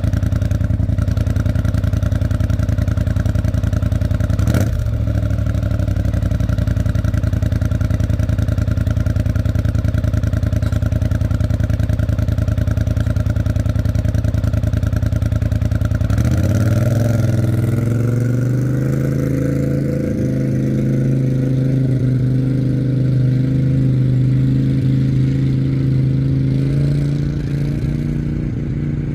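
Freshly rebuilt, RVS-tuned Polaris Sportsman 850 ATV twin-cylinder engine running through an aftermarket MBRP exhaust. A single knock comes about four and a half seconds in. About sixteen seconds in, the engine note changes and then climbs slowly in pitch.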